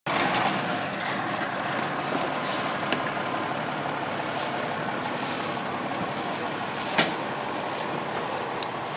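Steady vehicle-engine noise with an even hiss, broken by two sharp snaps, about three seconds and seven seconds in.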